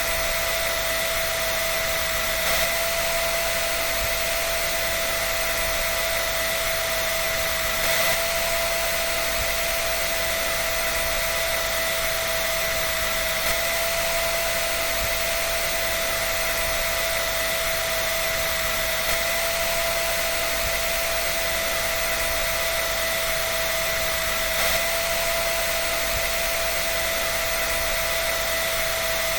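An electric dryer running steadily: a constant rush of air with a steady high whine over it and a few faint ticks.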